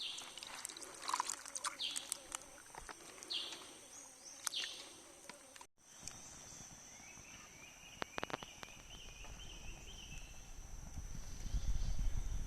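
Rainforest ambience: birds chirping and calling over a steady high-pitched insect drone, with a few sharp clicks, and a low rumble that builds near the end.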